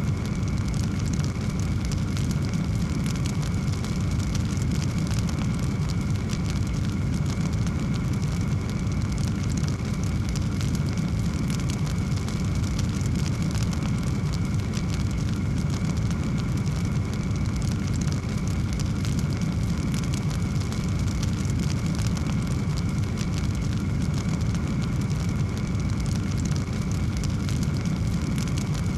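Wood fire burning in a fireplace: a steady low rumble with many small crackles throughout.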